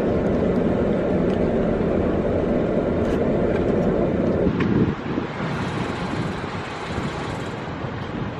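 Steady road and engine rumble of a moving car. The low rumble drops away sharply about five seconds in, leaving a quieter hiss.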